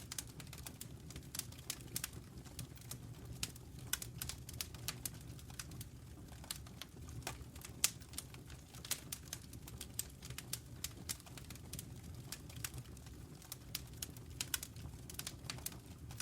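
Wood fire burning in a fireplace: irregular crackles and sharp pops, several a second, over a steady low rumble of the flames.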